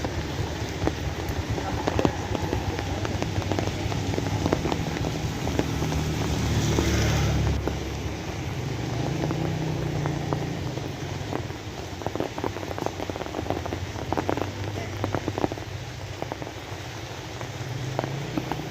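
Steady rain falling, with many separate drips and splashes over a low hum. A louder rush swells about six seconds in and cuts off suddenly a little before eight seconds.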